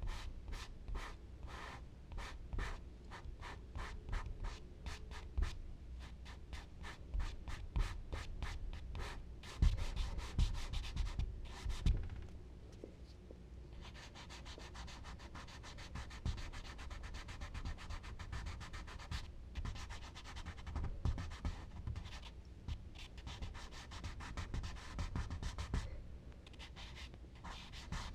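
Charcoal being worked on paper: quick repeated strokes, about two or three a second, scratching across the sheet, then denser continuous rubbing and scratching, with occasional low bumps from the hand and tool on the drawing board.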